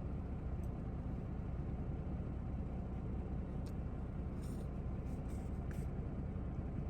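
Semi-truck's diesel engine idling with a steady low rumble, and a few faint clicks in the second half.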